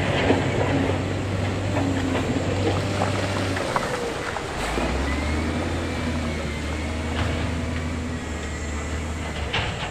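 Diesel engine of heavy earthmoving machinery running under work, with scattered clanks and knocks. The engine note drops lower about four seconds in, and a faint high whine runs through the second half.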